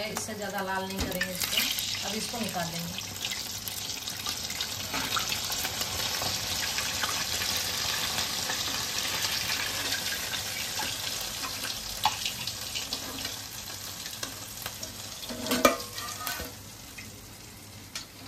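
Bread pakoras deep-frying in hot oil in a kadhai, a steady sizzle with a few sharp clicks of the metal spatula against the pan. The sizzle dies down near the end as the fried pakoras are lifted out of the oil.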